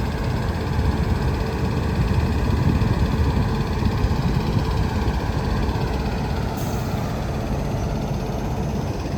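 Freight train of empty flat and container wagons rolling by behind an electric locomotive: a steady rumble of wheels on the rails with a faint steady hum above it.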